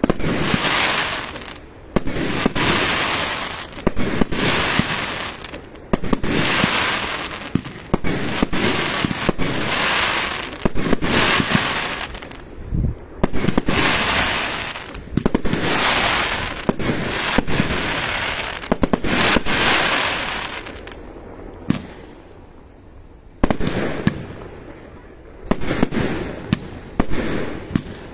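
Fireworks going off in a run of bursts about every two seconds, each starting sharply and trailing off in a crackling hiss, with a short lull about three-quarters of the way through.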